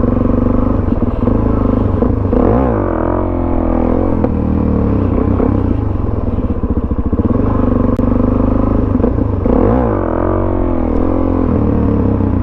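Suzuki DR-Z400SM supermoto's single-cylinder four-stroke engine running steadily, with two quick revs up and back down, one about two seconds in and one near ten seconds in.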